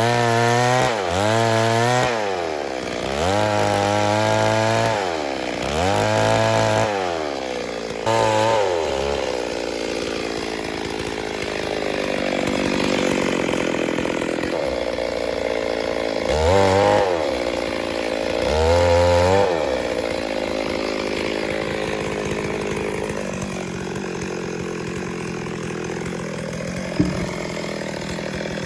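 Stihl MS 382 two-stroke chainsaw revving up and dropping back in short repeated blips, five in the first nine seconds and two more in the middle. Between and after the blips it runs steadier at a lower pitch. A single sharp click comes near the end.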